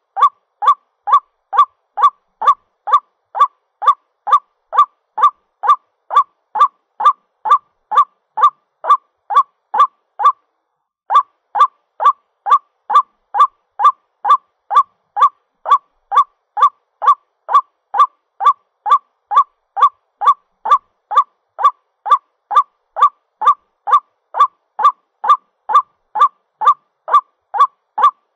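White-breasted waterhen (ruak-ruak) calling: a lure recording of its repeated short honking notes, about two to three a second in an even rhythm, broken once by a brief pause. The call is the bird's mating call to its partner.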